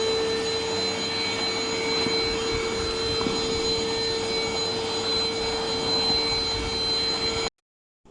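Enolux handheld dust-mite vacuum cleaner running steadily, a motor hum with a high whine over rushing air, stopping abruptly near the end.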